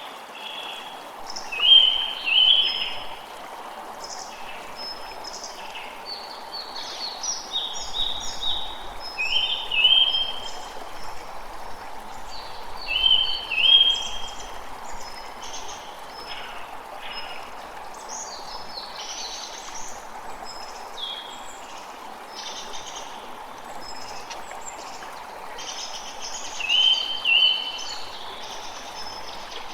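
A creek running steadily while birds sing over it. One bird repeats a short phrase every few seconds, loudest about two seconds in, twice near the middle and near the end, with higher chirps from other birds in between.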